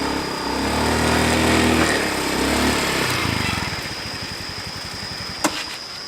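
Small motor scooter engine running, louder for the first few seconds, then settling to a quieter, even idle. One sharp click comes near the end.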